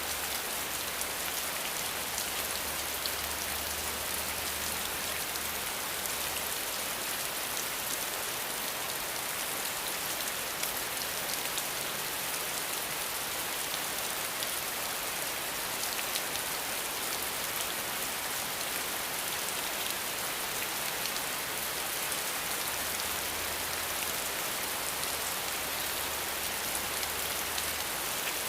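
Steady rain falling: an even hiss that holds level without let-up.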